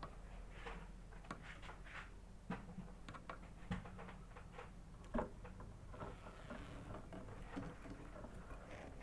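Scattered soft clicks and taps over a low steady hum, with no song: a caged canary moving about.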